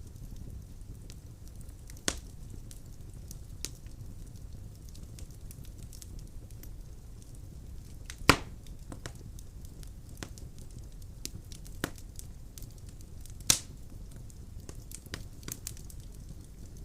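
Wood burning in a fireplace: a low, steady rumble of flame with scattered crackles from the logs. Three sharp, louder pops stand out, about two seconds in, near the middle and about four fifths of the way through.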